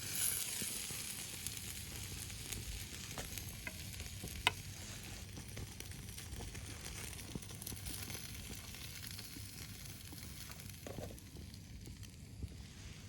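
Meat sizzling on an iron griddle plate, a steady hiss that slowly dies down, with one sharp click about a third of the way in.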